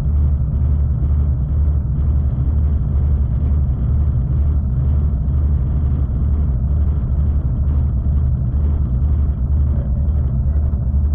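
Passenger train running along the track: a steady, deep rumble with no breaks.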